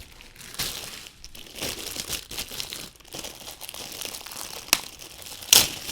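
Plastic parts bags crinkling and rustling as model-kit pieces are handled and sorted, with a sharp click a little before the end and a louder rustle just after it.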